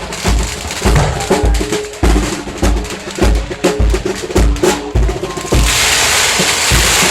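Marching band drumming: a bass drum beating steadily about every 0.6 seconds, with snare strokes and a tune played over it. About five and a half seconds in, the drumming pauses and a loud, steady rushing hiss takes over.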